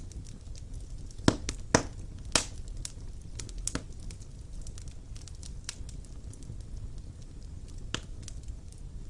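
Wood fire burning in a fireplace: a steady low rumble of flames with irregular sharp crackles and pops, three loud pops in quick succession about a second in and another near the end.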